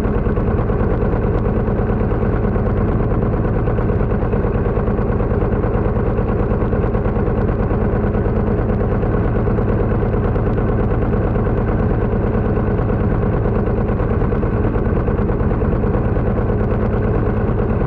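Pasquali 980 EX compact tractor's engine running steadily at an even speed, with no revving or change in pitch.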